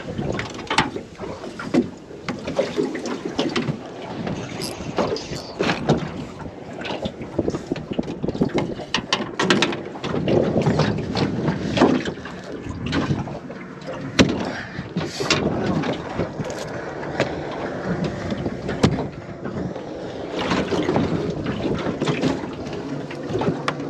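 Irregular knocks, clicks and clatter in a small aluminium boat over a steady background of water and movement, as a squid line is worked and handled.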